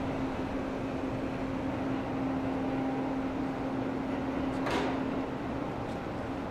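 Steady hum of a standing JR West 287-series electric limited express train, with one low tone running through it. A short hiss comes about three-quarters of the way in.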